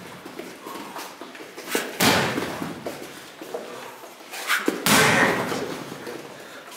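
Strikes landing on a BOB torso training dummy: two heavy hits about three seconds apart, each with a lighter tap just before it and a short ringing rattle after.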